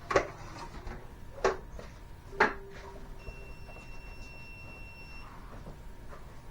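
Three sharp knocks, each about a second apart, the last with a brief ringing tone. A faint, steady high-pitched tone follows for about two seconds.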